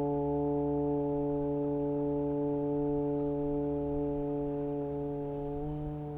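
A long, steady chant of the yogic syllable "U" (ukara) on one held pitch, sung aloud in one breath, rising slightly near the end before it fades out.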